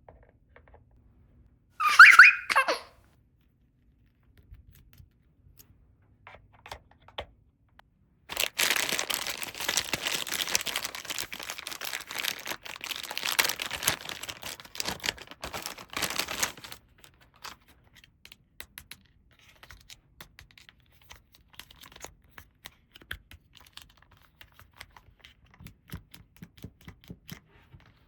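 A toy's recorded giggle sounds briefly, then plastic packaging is torn and crinkled for about eight seconds. Faint scattered clicks of small plastic toy pieces being handled follow.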